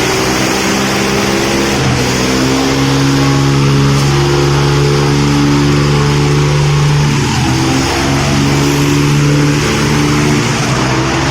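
Tractor diesel engines running hard at high revs under heavy load, straining against each other in a tug-of-war pull. The engine note stays loud and steady, shifting slightly in pitch.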